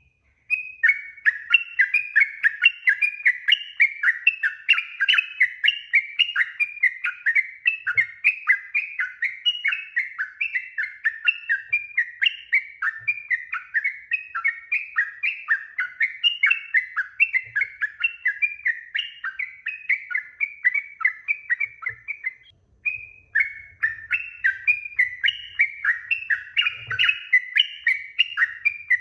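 Yellow-vented bulbul (trucuk) singing a long, fast chattering run of bubbly notes, several a second, with one short pause near the end.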